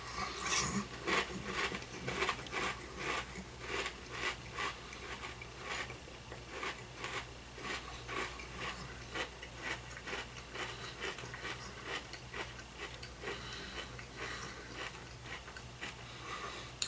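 Close-up chewing of crunchy Catalina Crunch cinnamon toast cereal: a steady run of crisp crunches, about two a second, growing softer as the pieces are chewed down.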